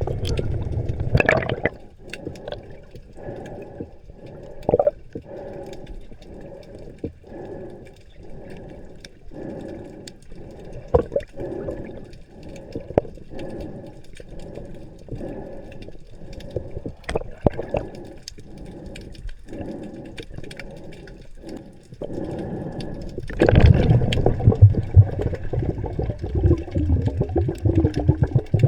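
Underwater sound: a regular throb about once a second with scattered sharp clicks and a faint steady high tone, then a loud, low bubbling rush starting about 23 seconds in.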